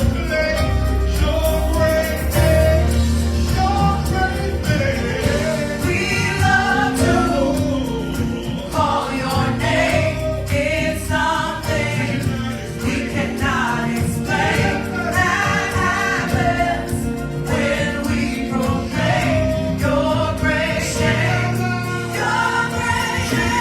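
Gospel choir singing a worship song with band accompaniment and a sustained bass line.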